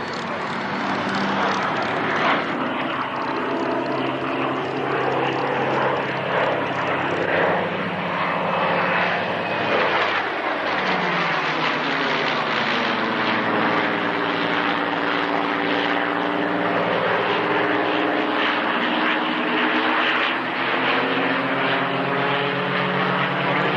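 Piston-engined propeller warbird flying a display, its engine droning steadily with the tone shifting as it passes about ten seconds in.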